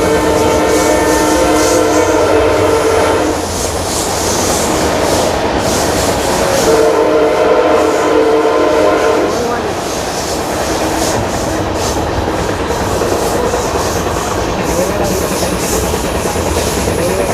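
WDP4D diesel locomotive's air horn sounding two long blasts, the first cutting off about three seconds in and the second starting a few seconds later, over the steady rumble and clatter of the moving train.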